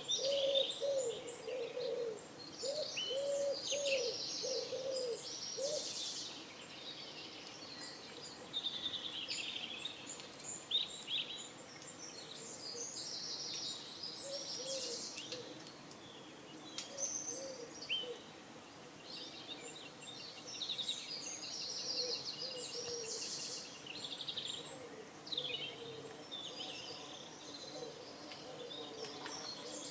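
Pigeons cooing in a run of short, low calls over the first six seconds and then now and then, under a busy chorus of small songbirds chirping and trilling.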